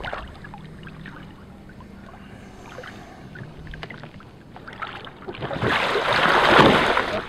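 Water lapping with small splashes, then a loud rush of splashing water about five and a half seconds in as a capsized inflatable kayak is flipped back upright.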